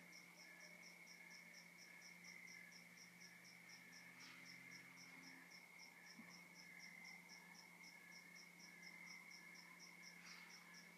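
Faint night chorus of crickets and other insects. One steady continuous trill runs under a higher chirp that pulses evenly about four times a second.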